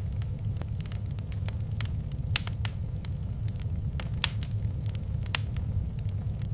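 Wood fire crackling in a fireplace: irregular snaps and pops over a steady low rumble, with a few sharper pops in the middle.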